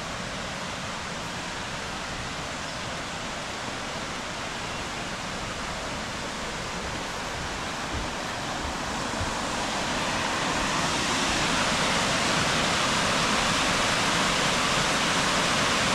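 Waterfall on a river: a steady rush of falling water, growing louder and brighter about two-thirds of the way in.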